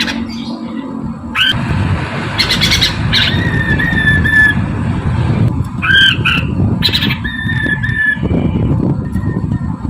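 Poksay Mandarin laughingthrush calling, with clear whistled notes and harsh chattering bursts, over a steady low rumble.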